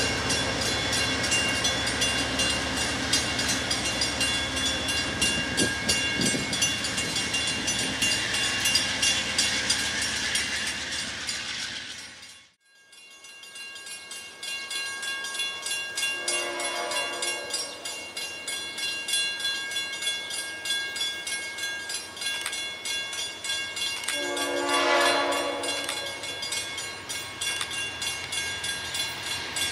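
An Amtrak GE Genesis diesel locomotive and its passenger cars rolling past with a steady rumble and wheel clatter, cut off by a fade to silence about twelve seconds in. Then a distant approaching freight locomotive sounds its horn twice, a short blast and, some eight seconds later, a longer, louder one.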